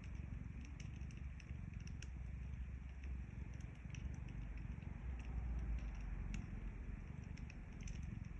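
A cat purring close to the microphone, a steady low rumble, with scattered pops and crackles from a wood fire.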